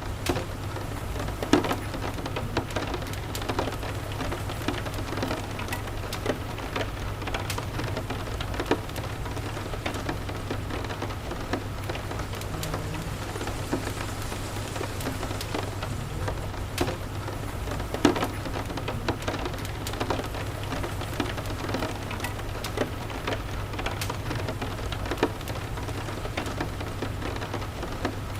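Steady rain, with a constant low rumble underneath and scattered sharp ticks and pops. Two of the pops, about a second and a half in and past the middle, stand out louder than the rest.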